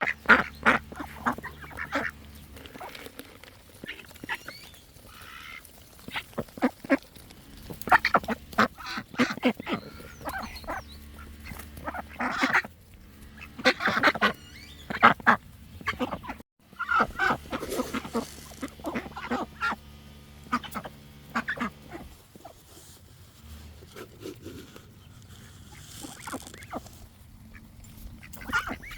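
A group of ducks quacking, with loud bouts of repeated calls coming every few seconds.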